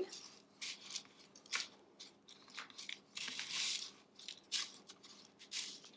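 Loose birdseed rustling and crunching as a peanut-butter-coated cardboard toilet paper roll is rolled through it, with scattered small clicks. The rustle is loudest a little past the middle.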